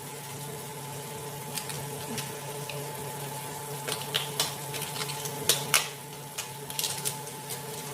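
Food frying in a pan, with scattered sharp crackles and pops over a steady low hum.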